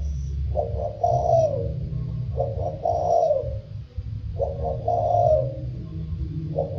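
Spotted dove cooing in what its keeper calls the 'thổ sâm' voice: a phrase of short notes ending in a longer falling coo, repeated about every two seconds, three times, with a fourth starting near the end. A steady low rumble runs underneath.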